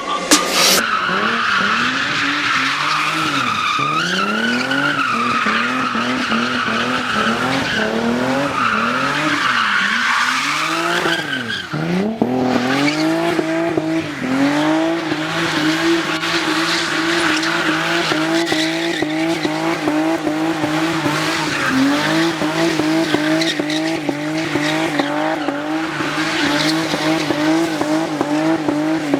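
Car engine revving up and down several times, then held at steady high revs for the second half.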